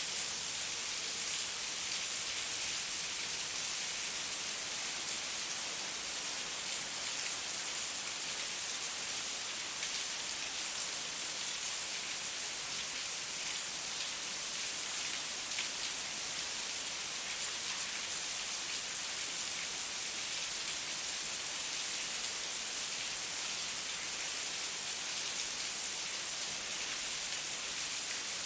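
Heavy rain falling steadily, an even hiss of countless drops with no let-up.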